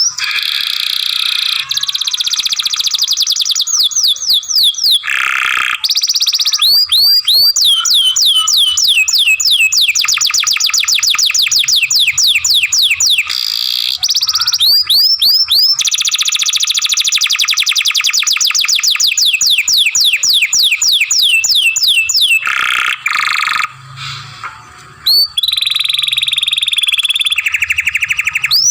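Young domestic canary singing a long, continuous song: fast trills of rapidly repeated notes alternating with runs of rising whistled sweeps, broken by a short pause a little past the middle and another near the end.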